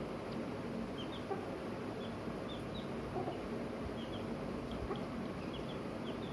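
Chicks peeping: many short, high cheeps, several a second, over a steady low hum.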